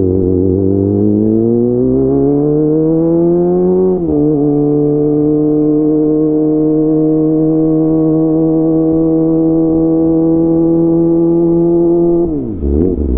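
Kawasaki ZX25R inline-four engine through a DX Generation GPR full-system exhaust, revving up under acceleration, its note dropping as it shifts up about four seconds in, then holding a steady high-revving note for about eight seconds. Near the end the revs fall and waver as the bike slows.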